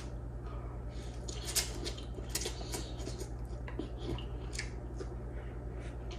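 Utensils clicking against a bowl of instant noodles while eating: a handful of short, sharp clicks spaced about a second apart, over a steady low hum.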